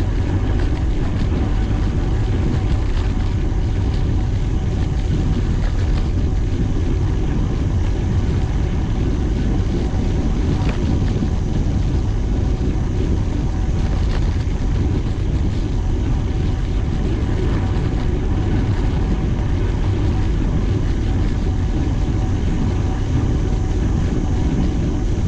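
Steady, loud rumble of wind and road noise on the microphone of a bicycle-mounted or rider-worn camera while riding, strongest in the low range and running without a break.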